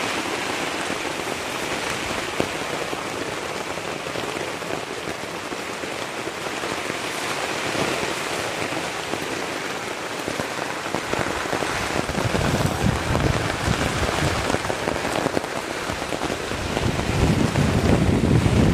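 Steady rain falling. From about twelve seconds in, gusts of wind rumble on the microphone, strongest near the end.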